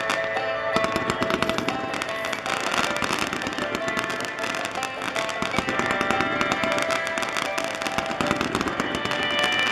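A fireworks display with rapid, continuous crackling and popping, and music playing alongside.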